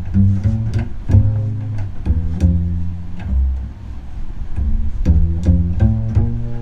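Double bass strung with gut strings, played pizzicato: a run of plucked low notes, each with a sharp attack and a short ringing decay.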